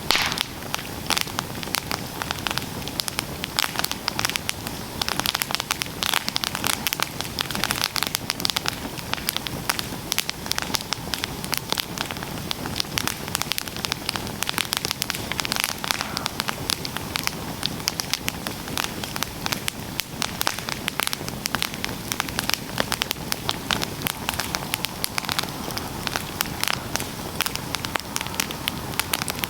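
Wood campfire burning with dense, irregular crackling and popping over a steady hiss.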